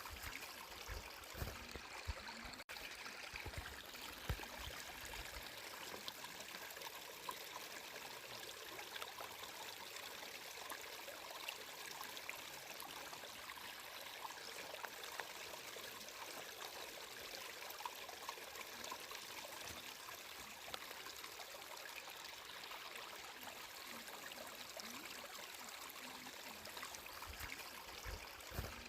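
Flowing stream water trickling and burbling steadily, a fine hiss with small scattered splashes.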